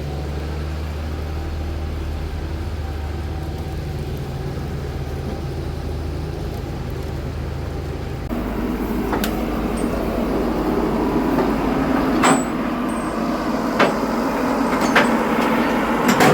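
A vehicle engine running with a steady low hum. About eight seconds in, the sound switches abruptly to a louder, rougher rumble with a few sharp knocks or rattles.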